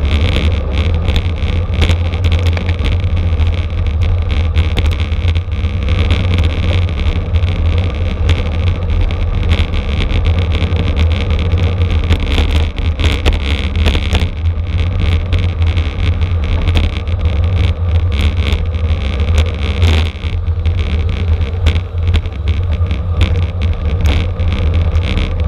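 Wind buffeting the microphone of a camera moving at race speed in a bicycle criterium, a loud steady rumble with road and bike noise mixed in.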